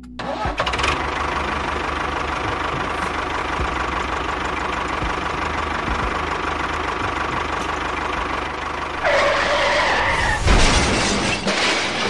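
Tractor engine running steadily with a fast low chugging. About nine seconds in it turns louder and higher, and a heavy thump follows a little later.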